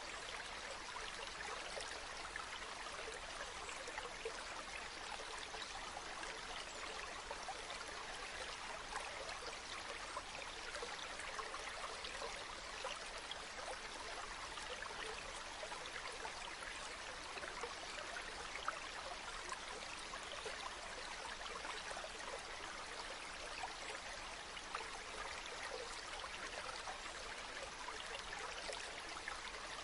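Running water flowing steadily: a continuous rushing hiss full of small splashes, with little low rumble.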